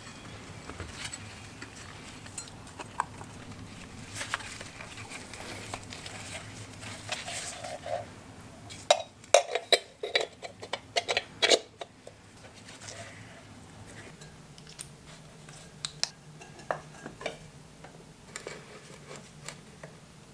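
Hard metal parts and tools clinking and clicking as they are handled, with a quick run of louder clatters around the middle.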